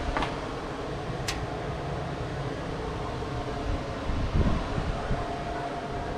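Steady mechanical hum with a faint steady whine, broken by a sharp click about a second in and a low thump a little before the end.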